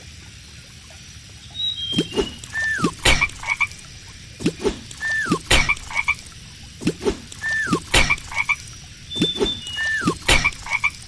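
Cartoon frog croaking in a looping game sound effect, starting about two seconds in and repeating roughly every two and a half seconds, each cycle with a sharp click, a short falling whistle and quick high chirps.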